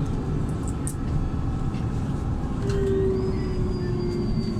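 Inside a LiAZ 5292.67 city bus on the move: the steady low rumble of its YaMZ-53624 compressed-natural-gas engine and road noise through the cabin. A little past halfway a whining tone comes in for about two seconds.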